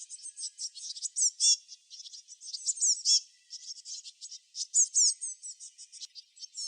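Small songbirds chirping and twittering: a dense run of quick, high-pitched notes and short sweeping calls that overlap, with louder bursts of calls every second or two.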